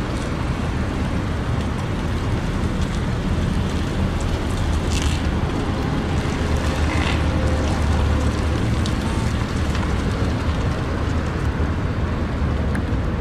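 Steady outdoor rumble and hiss of wind and road traffic, with a few faint clicks.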